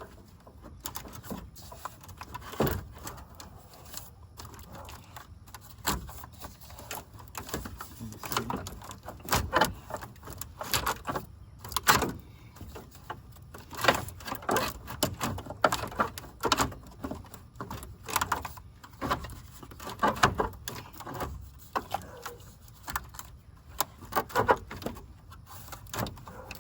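Radiator cooling fan assembly knocking, scraping and clattering against the radiator and hoses as it is wiggled by hand to free it, catching as it goes; the knocks are irregular and come throughout.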